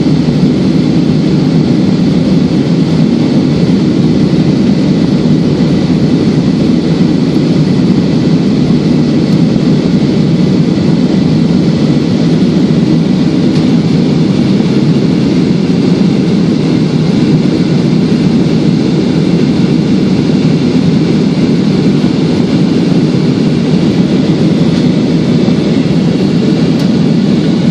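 Steady, loud cabin noise of an airliner climbing after take-off: the deep, even rush of the jet engines and the airflow, with a faint higher whine above it.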